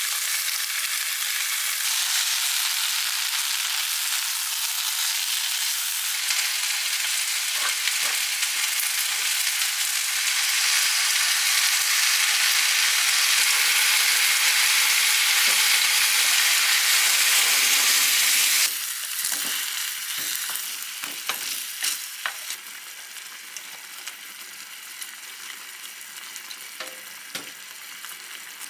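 Chicken drumsticks and vegetables sizzling loudly in a hot wok while being stirred with a wooden utensil. About two-thirds of the way through the sizzle drops off suddenly to a much quieter frying, broken by scattered light taps and clicks.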